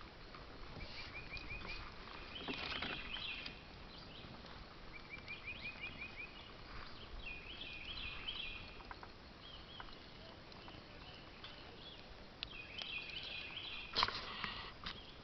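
Songbirds singing faintly: quick trills of repeated short notes and bright chirps, on and off. A few light knocks, with a sharper knock near the end.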